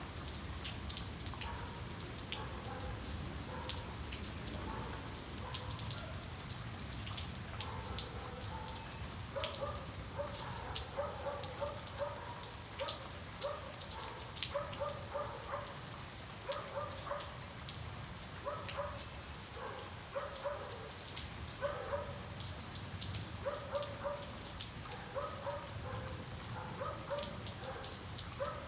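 Steady rain falling, with many single drops ticking sharply close to the microphone. From about nine seconds in, a short pitched call repeats in quick clusters over the rain.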